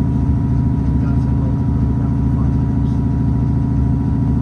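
Diesel passenger train's steady engine and running drone, with a thin steady high tone above it.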